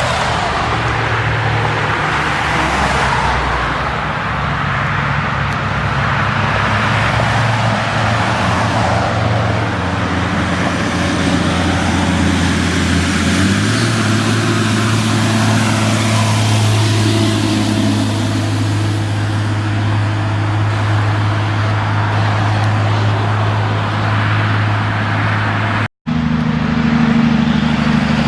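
Heavy diesel trucks running on a road amid traffic noise, with a steady engine drone. The engine note changes pitch about halfway through, and the sound cuts abruptly near the end.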